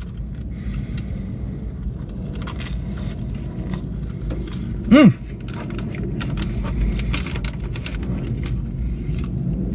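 A steady low rumble, like a car idling as heard from inside the cabin, with light rustling and clicks of someone eating. About five seconds in comes a short, falling "mmm" of enjoyment through a mouthful.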